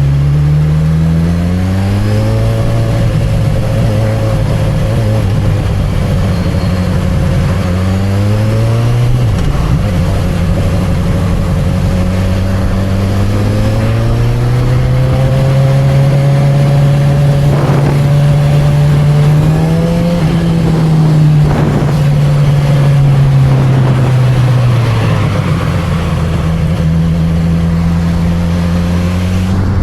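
Honda CB1000R's inline-four engine and exhaust pulling under the rider. The pitch rises in the first few seconds, dips and climbs again about a third of the way in, holds steady, then drops near three quarters of the way through as the revs come down.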